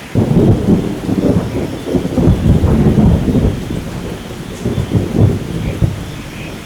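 A thunderclap breaks in suddenly and rolls on as a loud low rumble that surges several times, swells again about five seconds in, then slowly fades, over steady rain.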